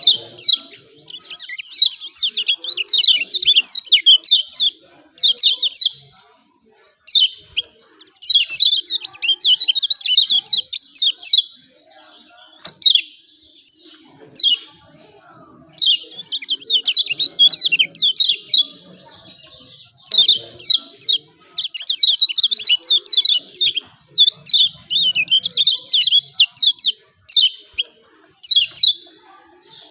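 Kecial kuning (yellow white-eye) giving fast, excited 'ciak ciak' chattering calls: bouts of rapid high, down-slurred notes, each a second or more long, broken by short pauses.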